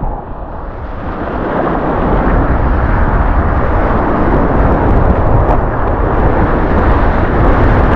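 Steady rushing noise of river water heard from a kayak on the Salmon River, with a deep rumble underneath, building slightly over the first couple of seconds.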